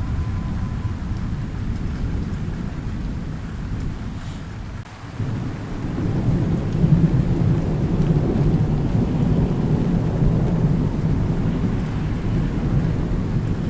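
Thunder rumbling over steady rain. The rumble dies down to a brief lull about five seconds in, then a new long roll of thunder builds and keeps rolling.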